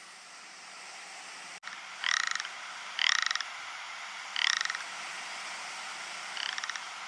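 Ptarmigan giving four short, rattling croaks, each under half a second, the last one fainter.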